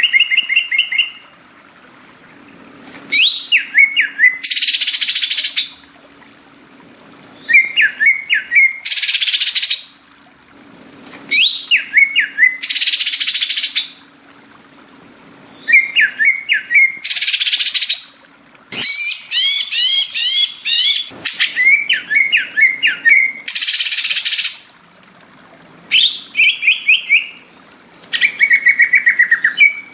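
Greater green leafbird (cucak ijo) singing: repeated phrases of clear whistled notes, each followed by a harsh rasping burst, about every four seconds, with a quick run of rising notes near the middle.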